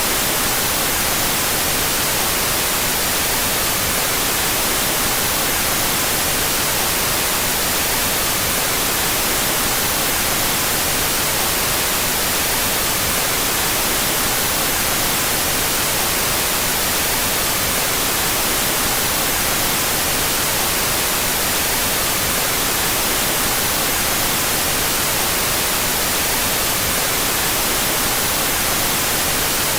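Steady, unchanging white noise: an even hiss, brightest in the highs.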